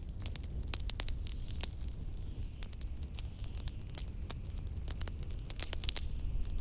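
Wood fire crackling, with irregular sharp pops a few times a second, over a steady low rumble of blizzard wind.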